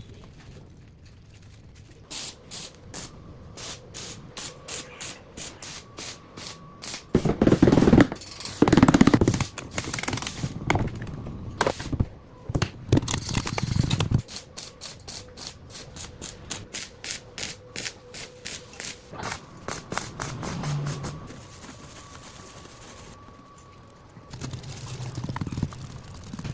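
Rhythmic scraping strokes, about two to three a second, with two louder, heavier strokes about eight seconds in; the strokes stop a few seconds before the end.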